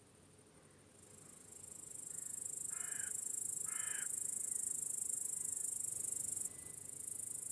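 Crickets chirping in a high, fast continuous trill that swells in about a second in and briefly dips near the end. Two short harsh bird calls, crow-like caws, come about a second apart midway.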